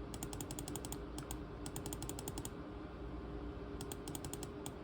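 Three quick runs of small plastic clicks on a laptop, about ten a second, over a steady low hum.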